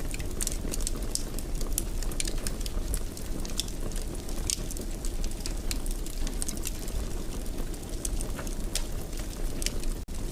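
Wood fire in a fireplace crackling, with frequent sharp pops and snaps over a steady low rumble of burning. The sound cuts out for an instant near the end.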